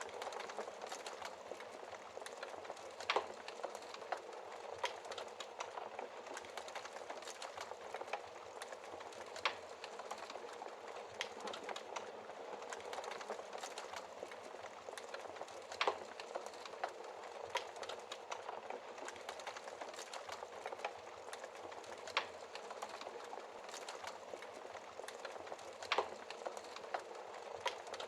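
Wood logs burning in a fireplace, crackling continuously over a soft hiss of flame, with a handful of louder pops scattered through.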